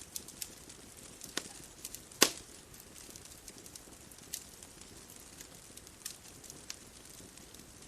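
Wood fire crackling: irregular sharp pops and snaps over a soft steady hiss, with the loudest pop a little over two seconds in.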